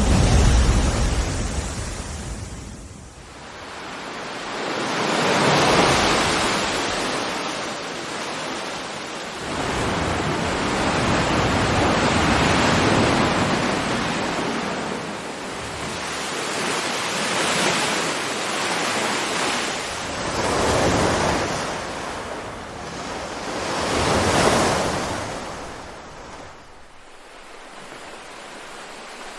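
Ocean waves breaking and washing up the shore, coming in repeated swells every few seconds, each rising to a hiss and then fading.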